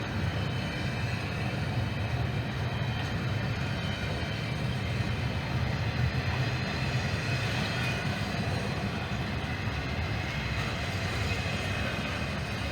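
A Norfolk Southern freight train rolling past with a steady low rumble and faint high tones above it.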